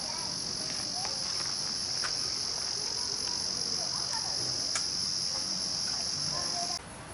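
Crickets chirring in a steady, continuous high-pitched drone that cuts off suddenly near the end, with a few faint sharp clicks.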